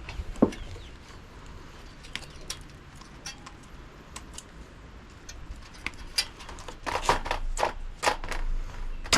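Scattered clicks and small metal rattles from parts and wiring being handled and pulled while a fridge is stripped, with one sharper click about half a second in and a busier run of knocks and scrapes over the last three seconds.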